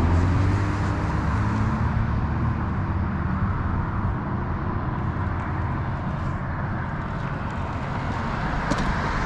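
Steady rushing wind and road noise while riding an e-bike along a street with traffic. A passing vehicle's engine hum fades in the first couple of seconds, and a few light clicks come near the end.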